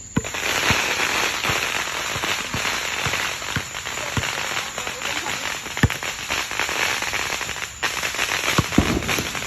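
Fireworks crackling: a dense rapid stream of cracks and pops, starting just after the beginning, with a short break about eight seconds in and a few louder single bangs among them.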